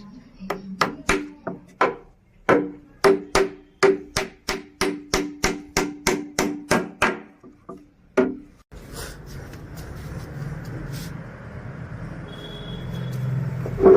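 Hammer blows on wood, a quick run of sharp strikes at about three a second, each with a short ring. They stop abruptly at about eight and a half seconds, and a steady low rumbling noise follows.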